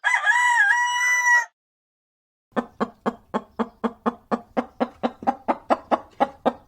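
A rooster crowing, the held end of a cock-a-doodle-doo that stops about a second and a half in. Then, after a short pause, a chicken clucking rapidly and evenly, about five clucks a second.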